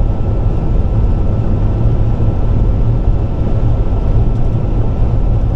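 Steady road and engine rumble of a car driving at highway speed, heaviest in the low end, with a faint steady high tone.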